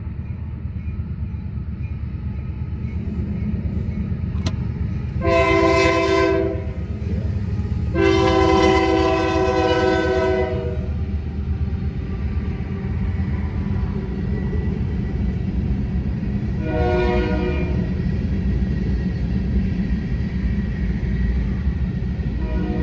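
Union Pacific freight locomotives led by GE AC44CW UP 6832 approach with a steady diesel rumble. The lead unit's air horn sounds three blasts: a short one about five seconds in, a long one about eight seconds in, and another short one near seventeen seconds.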